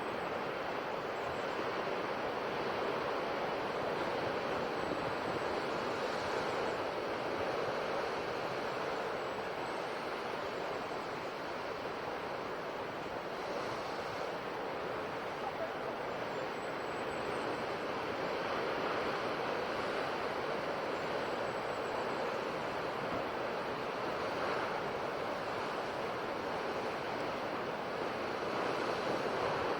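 Sea waves washing onto the shore: a continuous surf with slow, gentle rises and falls.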